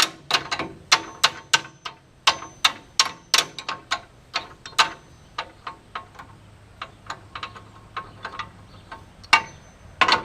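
Hammer tapping on steel, sharp ringing metal-on-metal strikes about three a second, then slowing and growing softer, with two loud blows near the end.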